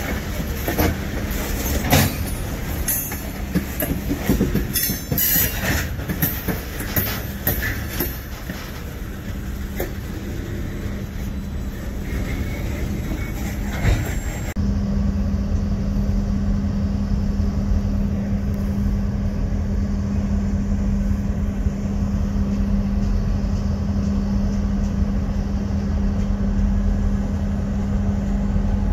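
Union Pacific freight cars rolling past with a busy clatter of wheel knocks and clicks. About halfway through, this changes abruptly to a steady low rumble with a held drone.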